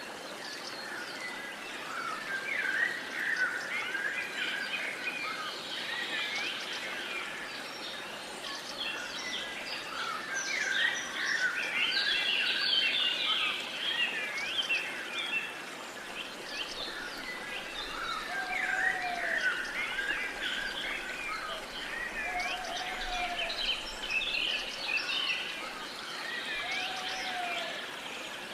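A chorus of wild birds, with many overlapping short chirps and whistles over a faint hiss of outdoor ambience. In the second half a lower call repeats three times, about four seconds apart.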